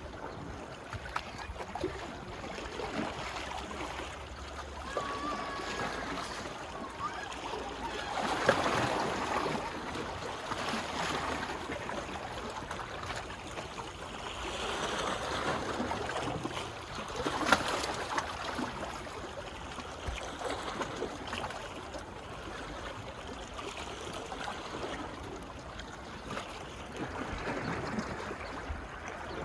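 Small waves lapping and washing on a sheltered beach shore, a steady watery wash that swells louder a few times, with a couple of sharper splashes.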